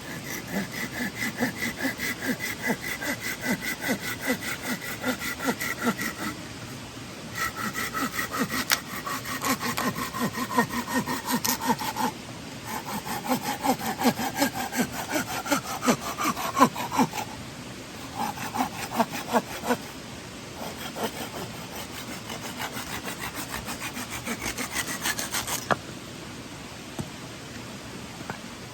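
Hand saw cutting through wood in steady back-and-forth strokes, about two a second, in several runs with brief pauses between them. The blade rings with a tone that slides downward in pitch during some of the runs.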